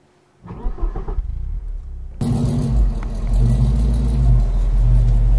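A motor vehicle's engine running with a steady low rumble. It comes in quietly about half a second in and turns suddenly louder about two seconds in.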